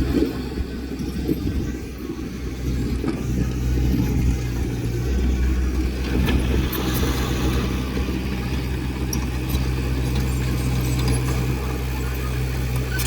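Diesel engine of heavy earthmoving equipment running steadily with a deep, low note that shifts slightly about five seconds in.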